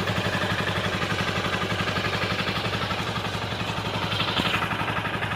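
Motorcycle engine idling steadily, with an even, fast pulsing beat.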